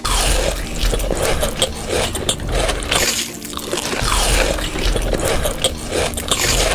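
Close-miked wet eating and drinking mouth sounds, slurping and swallowing in repeated bursts.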